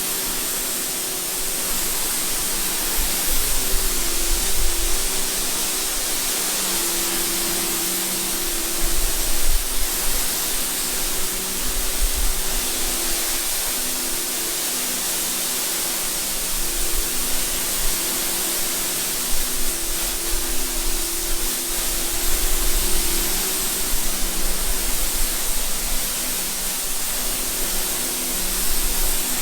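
Water spraying steadily from a hose or washer nozzle in a continuous hiss, with a low hum that comes and goes underneath.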